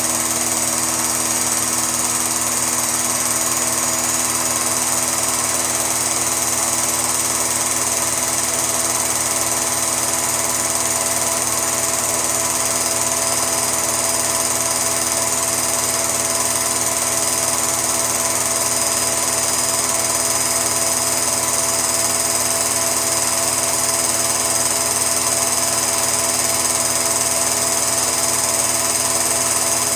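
A steady, unchanging machine hum made of several fixed tones over a constant hiss, with no beat or change in speed.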